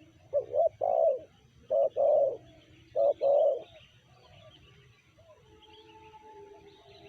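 Spotted dove (tekukur) cooing: a run of low coos in the first four seconds, short notes paired with longer drawn-out ones. Fainter held coo tones follow, with faint high chirping of small birds behind.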